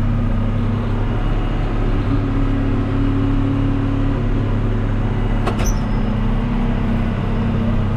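Tractor engine running at a steady speed while pulling a round baler through the hay, a constant low drone, with one sharp click about five and a half seconds in.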